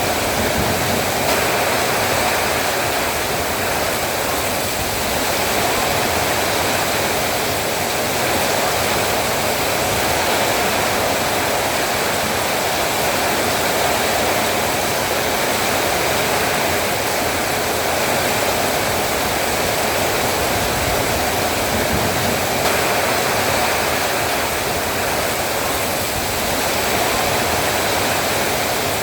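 Heavy rain falling steadily, a dense even hiss of downpour with wind.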